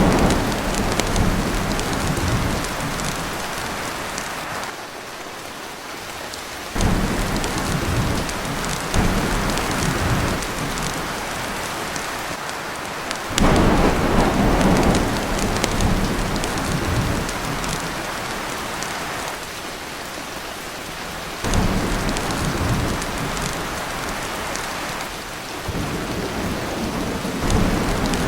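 Heavy rain pouring on a tin roof, with rolls of thunder that start suddenly and fade away, one every six to eight seconds.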